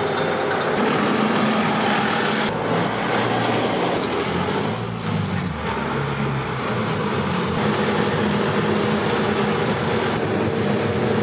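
Car engine running as the car drives slowly into an underground garage, the sound changing abruptly several times.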